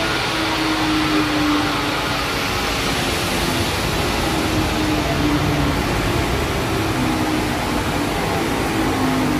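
Modified Isuzu MU-X 2.5 L turbodiesel running at a steady speed on a chassis dynamometer during a dyno session: a loud, even drone with a rushing hiss, its pitch holding steady with no rev-up.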